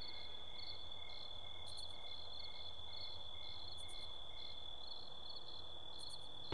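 Crickets chirping: a steady high trill with chirps about two a second, over a faint low hum.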